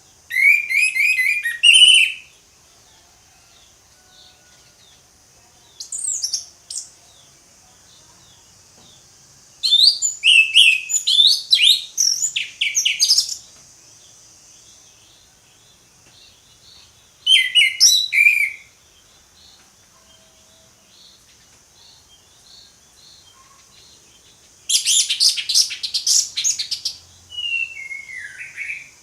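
Orange-headed thrush singing in five separate bursts of quick, varied whistled phrases with pauses between them, over a steady high hiss.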